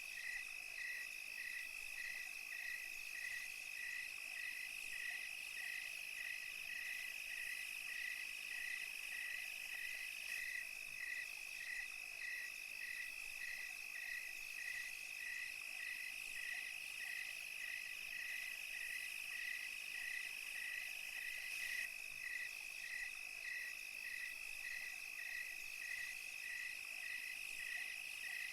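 Night countryside insect chorus of crickets: a steady high trill with a second caller chirping evenly, about one and a half times a second.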